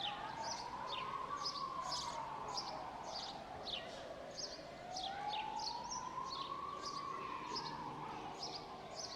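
A siren wailing, slowly rising and falling twice, behind many birds chirping: short, high, falling notes several times a second.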